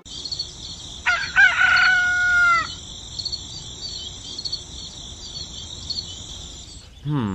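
A rooster crowing once, a single call of about a second and a half, over steady high-pitched chirping of insects or small birds.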